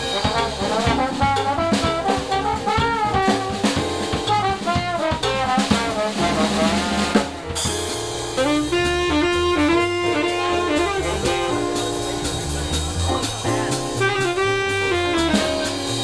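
Jazz band playing, a saxophone carrying the melody over a drum kit. About halfway through, the drums' cymbals stop suddenly and the saxophone goes on over a lower accompaniment.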